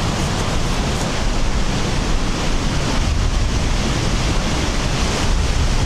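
Strong wind buffeting the microphone: a loud, steady rush with heavy low rumble.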